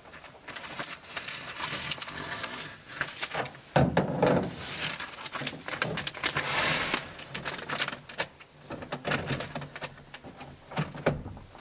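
Plastic vacuum-sealer bag crinkling and rustling as it is trimmed and handled, with irregular clicks and small knocks; the loudest crinkles come about four seconds in and again around six to seven seconds.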